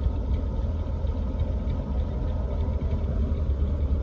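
An engine idling steadily with a deep, even low rumble.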